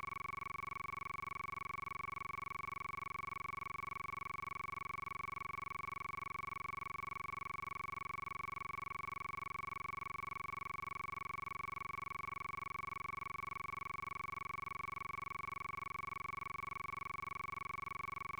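A steady, high electronic tone with a fainter tone an octave above it, held unchanged throughout.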